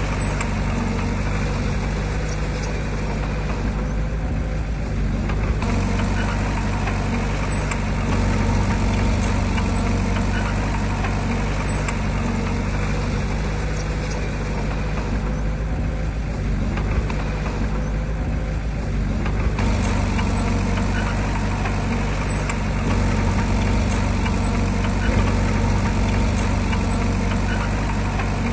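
Engine of heavy earthmoving equipment running steadily at a low, even pitch.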